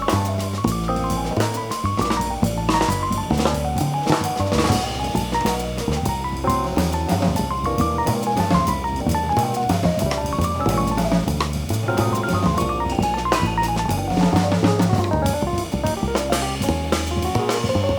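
Live jazz band playing, with a drum kit prominent under quick rising and falling melodic runs and a steady bass line.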